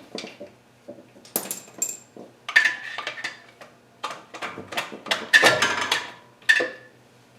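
Metal hand tools clinking and clattering against metal engine parts: a run of sharp, irregular clinks, some with a short metallic ring, loudest in two clusters about two and a half and five seconds in.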